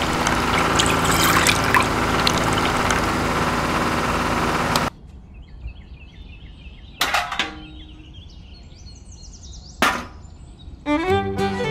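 Small motor of a miniature juice machine running while juice pours into a small metal bucket, cutting off abruptly about five seconds in. Two sharp knocks follow a few seconds apart as small buckets are set down, and music starts near the end.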